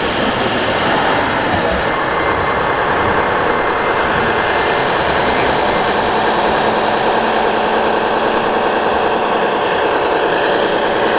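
Scale radio-controlled construction trucks and machines running, a steady, unbroken mechanical drone.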